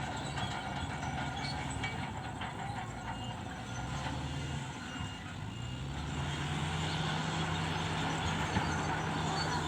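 Heavy earthmoving machinery's diesel engine running steadily, with rapid metallic clanking in the first few seconds; the engine grows louder about six seconds in.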